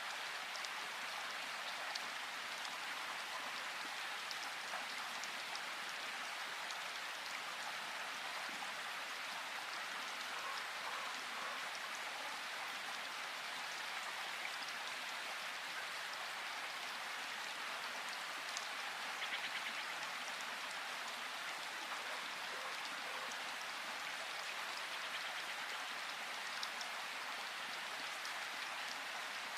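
Steady rain falling in a forest: an even hiss with scattered drop ticks. There is a short, slightly louder burst about two-thirds of the way in.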